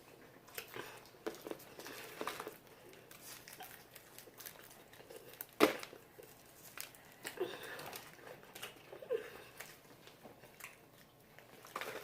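Fried chicken wings being chewed and crunched, with scattered small clicks and crackles of mouth and handling noise. There is one sharper click about halfway through.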